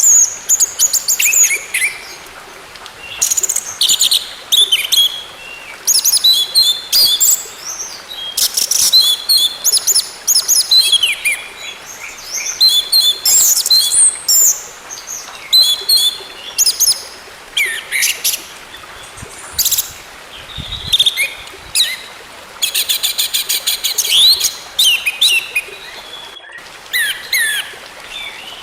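Orange-headed thrush (anis merah) singing: a long run of varied phrases of rapid chattering notes, chirps and sliding whistles, broken by short pauses, over a faint steady hiss.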